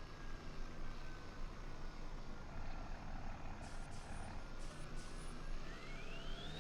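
Truck engine running with a steady low rumble, over which a thin high whine sinks slowly and then climbs steeply near the end.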